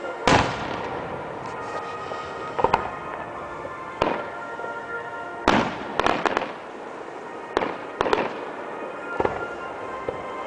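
Fireworks shells bursting overhead: sharp bangs every second or two, about eight in all, with a quick double bang about six seconds in, over music played for the display.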